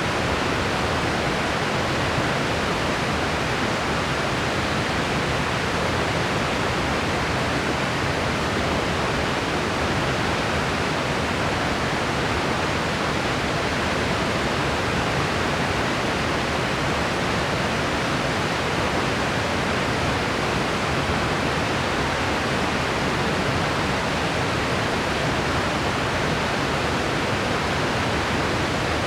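Steady, unvarying white-noise track with a soft, rushing tone, weighted toward the lower and middle range rather than bright hiss.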